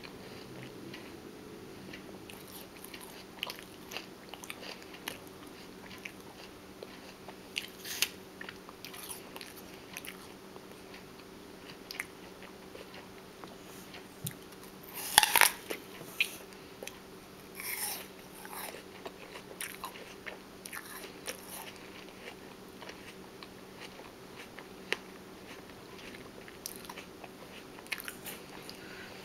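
A person biting and chewing crunchy raw food, with scattered sharp crunches. The loudest comes about fifteen seconds in.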